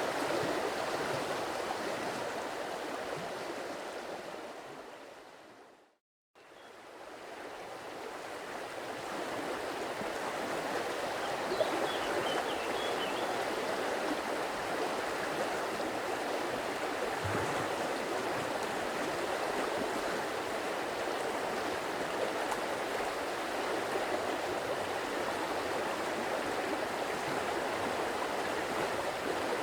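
Stream water flowing and splashing steadily. About six seconds in it fades briefly to silence and then fades back in, as at the loop point of a repeated recording.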